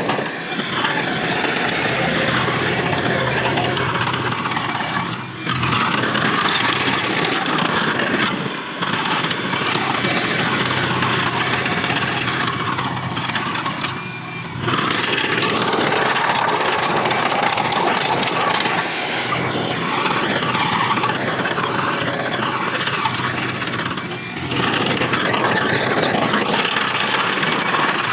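Diesel engines of heavy earthmoving machinery running steadily, with brief drops in level a few times.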